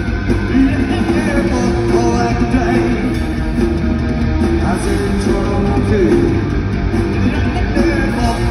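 Live rock band playing a loud, continuous passage.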